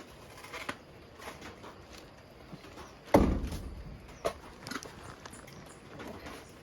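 Scattered light knocks and clicks, with one heavy thud about three seconds in that dies away over about half a second.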